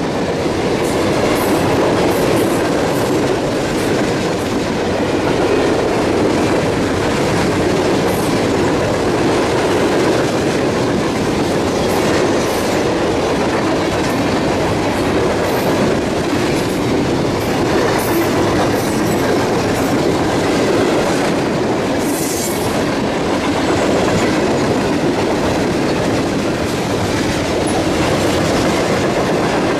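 Freight train cars rolling past, a steady loud rumble with wheels clacking over the rail joints. A few brief high wheel squeals cut through, the strongest a little past two-thirds of the way.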